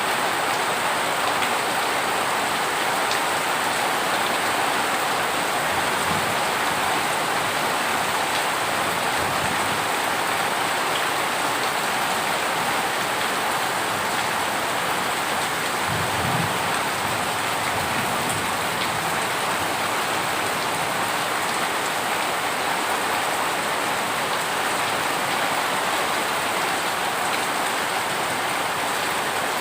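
Heavy rain falling in a steady, dense hiss, with a few faint low rumbles underneath.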